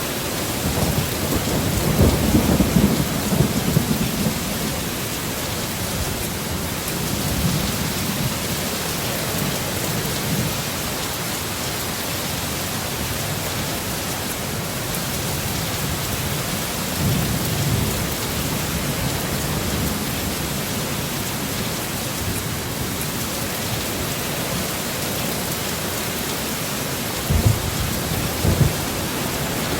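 Heavy rain pouring steadily, with rolling thunder rumbling loudest in the first few seconds and again about halfway through, and two short sharper cracks near the end.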